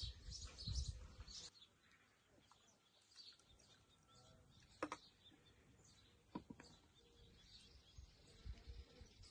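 Songbirds chirping in short, high, repeated calls, thickest in the first second or so and scattered after. Two sharp clicks stand out, about five and six and a half seconds in.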